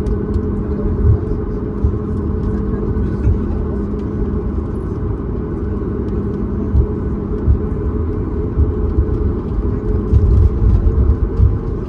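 Inside the cabin of a Boeing 737 MAX 8: steady engine hum and low rumble, with scattered small knocks and rattles, a cluster of them near the end.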